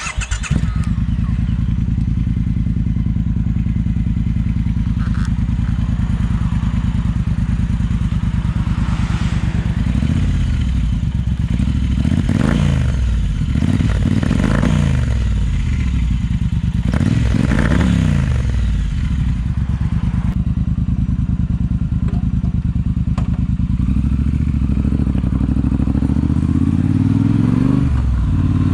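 Triumph T120 parallel-twin engine breathing through an aftermarket Zard exhaust: it catches and settles into a steady idle right at the start, is blipped up and back down several times in the middle, then idles again before the revs climb near the end.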